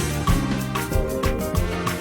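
Live gospel band playing an instrumental passage with a steady drum beat under sustained bass and chords, with no singing.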